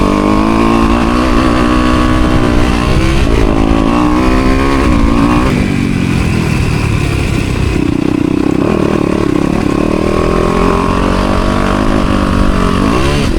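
Four-stroke 250cc motocross bike engine (Honda CRF250R) being ridden hard, its pitch climbing and falling repeatedly with throttle and gear changes. The revs drop about five and a half seconds in and climb sharply near the end.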